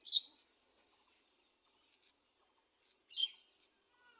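Two short bird calls, one at the very start and one about three seconds in, over a steady high-pitched insect chirping pulsing about three times a second.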